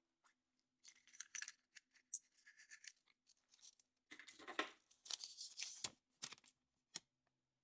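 Surprise-egg packaging being torn open and rustled by hand, in short irregular bursts with a few sharp clicks.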